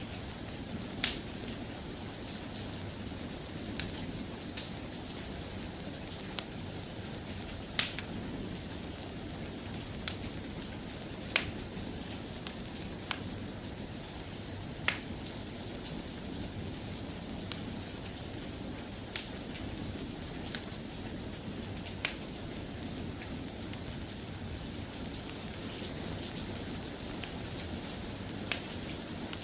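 Steady soft rain, with sharp single clicks every second to few seconds at irregular intervals.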